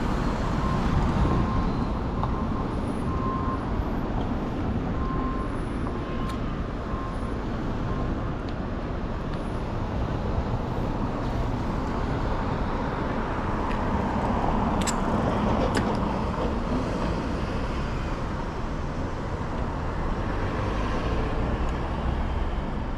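Steady city traffic and road noise heard from a bicycle riding in downtown traffic, with a faint beeping tone on and off in the first several seconds and a few sharp clicks.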